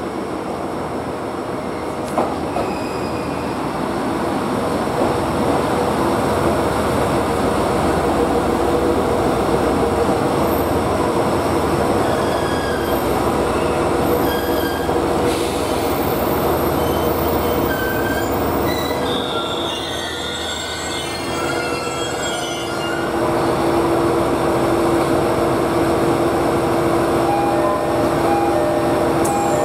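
A JR East GV-E400 diesel-electric railcar pulling into the station with a steady rumble, with high squeals from wheels and brakes as it slows, mostly in the middle stretch. A steady hum rises near the end as it draws to a halt.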